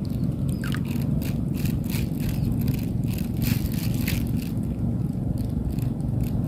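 Strong wind buffeting the microphone: a steady low rumble with constant crackling and rattling.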